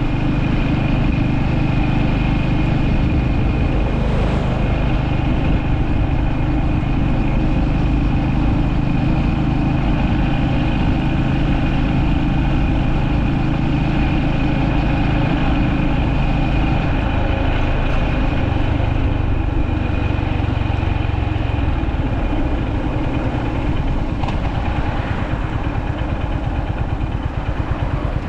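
Honda GB350S motorcycle's air-cooled single-cylinder engine running steadily, its note dropping lower a little past halfway through.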